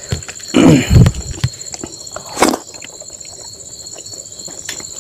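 Close-miked eating sounds of a man eating rice and greens by hand: wet chewing, lip smacks and mouth clicks, with a brief voiced murmur about a second in and one sharper smack midway. A steady high-pitched whine runs underneath.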